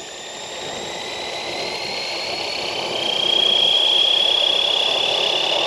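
Fly Wing 450L electric RC helicopter spooling up: a high motor whine and the rotor's rushing noise grow steadily louder, with a stronger, steady whine about three seconds in.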